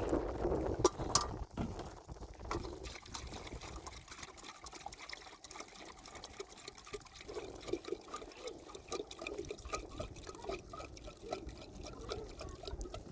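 Water trickling and pouring, with many small irregular gurgles and drips.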